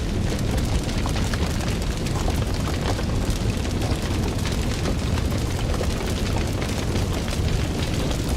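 Fire crackling: many small, sharp crackles and pops over a steady low rumble.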